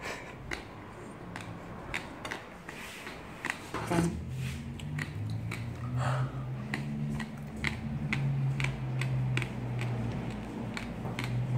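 Chewing and crunching of hard passion fruit seeds, a string of short sharp clicks scattered throughout. From about four seconds in, a low steady hum runs underneath.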